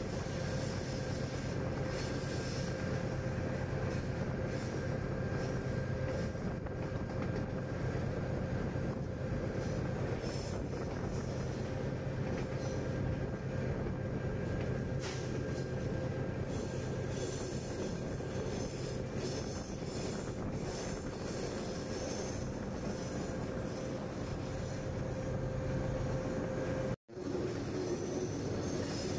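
General Electric diesel-electric locomotive running with a train up a steep mountain grade: a steady engine drone and wheel rumble, with a high, steady squeal of steel wheels on the rails. The sound drops out for an instant near the end and then carries on changed.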